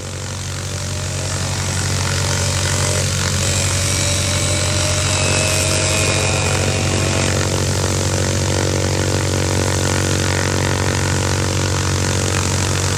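Cessna 172 Skyhawk's four-cylinder piston engine and propeller running loud and steady at high power for takeoff, with a slight rise in pitch in the first half.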